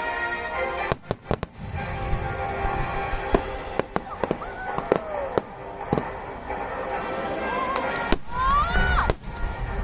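Aerial firework shells bursting in a series of sharp bangs, a quick cluster about a second in and more spread through, over music played to accompany the display.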